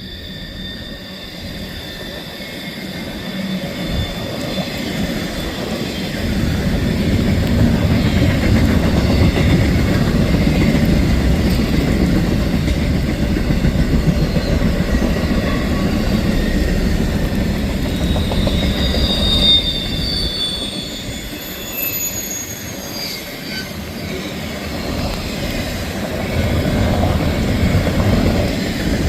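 Freight train rolling past, its wheels rumbling steadily on the rails. There is a faint high wheel squeal about two-thirds of the way through.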